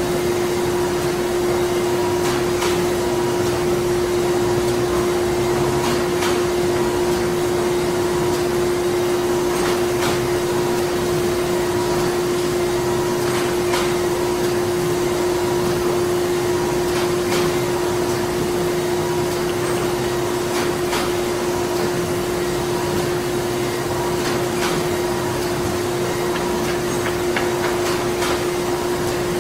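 Printing factory machinery running steadily: a constant mechanical hum with one strong steady tone, a haze of machine noise, and irregular sharp clicks and knocks scattered throughout.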